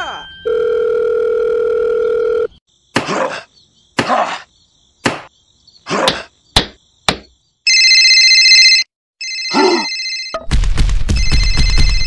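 A string of cartoon sound effects: a steady electronic tone for about two seconds, then six sharp knocks, then a telephone ringing in two short bursts. Near the end a loud low noise comes in under a further ring.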